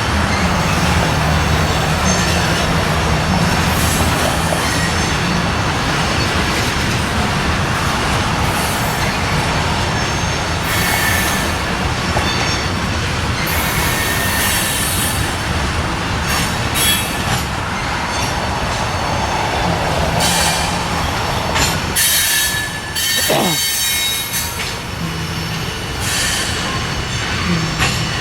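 Norfolk Southern train rolling past with a steady rumble of wheels on rail, and flanges squealing on and off, loudest about three-quarters of the way through.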